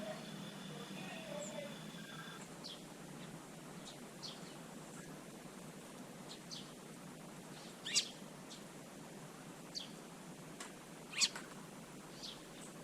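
Wild birds calling: a dozen short, sharp calls scattered over a faint steady background, with two louder calls about eight and eleven seconds in.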